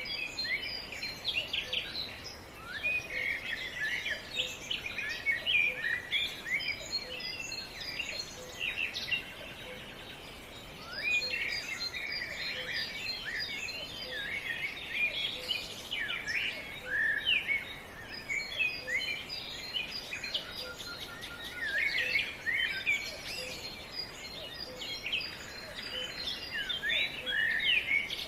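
Several songbirds singing and chirping at once, a dense chorus of short calls and quick pitch glides over a faint steady outdoor background.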